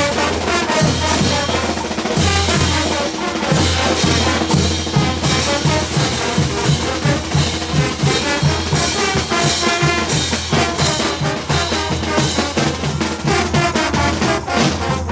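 Bolivian brass band playing a caporales tune: trumpets and other brass over a steady drum beat.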